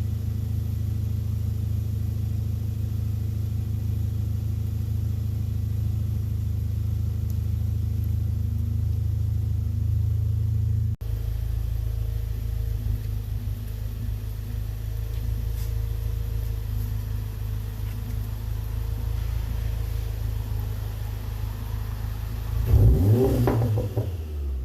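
Volkswagen Mk7 GTI's turbocharged 2.0-litre four-cylinder, breathing through an APR catted downpipe and AWE Touring catback exhaust, idling steadily. Near the end it is given one quick rev that rises and falls back.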